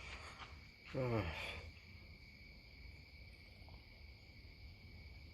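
Crickets chirring steadily in a high, unbroken tone. About a second in, a person makes one short voice sound that falls in pitch.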